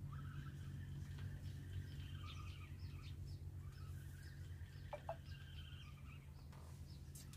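Faint bird calls: many short chirps and calls repeating throughout, over a low steady rumble.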